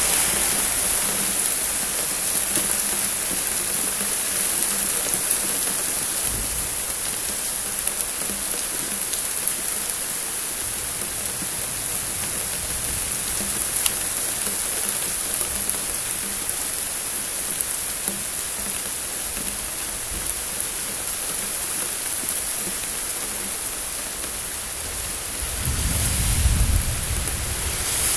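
Steady rain falling with the patter of drops hitting surfaces, and a low rumble of thunder swelling for about two seconds near the end.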